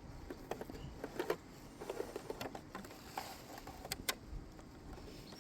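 Irregular light clicks and small knocks from a beehive's entrance being closed up by hand, with louder clicks about a second in, about two seconds in and about four seconds in.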